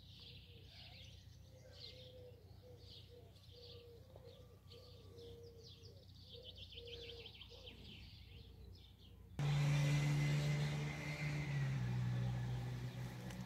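Faint birdsong: small birds chirping in repeated short phrases. About nine seconds in, the sound cuts abruptly to a much louder, steady low hum with a hiss over it.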